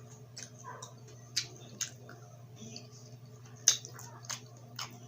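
Close-miked eating sounds: sharp wet mouth clicks and smacks while chewing, about five loud ones spread across the few seconds, over a steady low hum.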